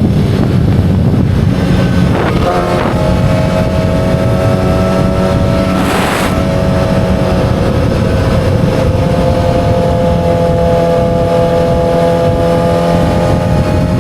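2007 Yamaha R6's 600 cc inline-four engine running at fairly steady high revs under way, its pitch sagging slightly and rising again near the end.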